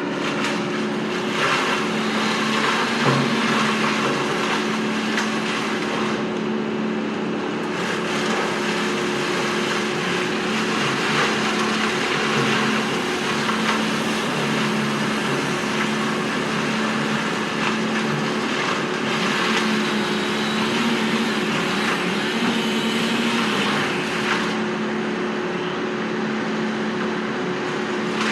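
An engine running steadily with a constant hum, with a stronger hiss through long stretches.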